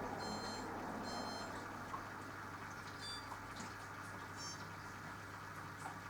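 Mini washing machine running its wash cycle: a steady low hum with water sloshing in the tub, and several brief, faint high chirps.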